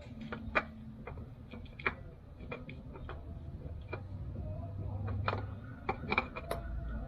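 Irregular light clicks and taps of small objects being handled, a dozen or so spread unevenly, with a faint low hum rising and fading in the middle.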